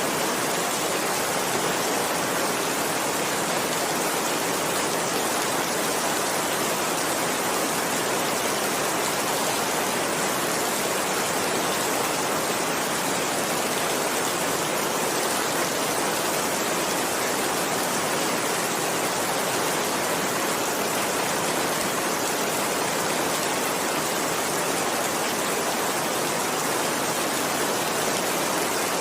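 Heavy rain falling steadily, an even hiss that does not change, with no thunder.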